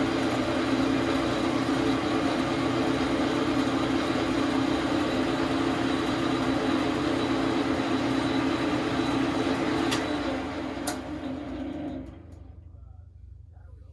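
Dar Sin 12 x 37 manual lathe running steadily. Its sound drops away about ten seconds in, with a sharp click, and stops about two seconds later, leaving a faint low hum.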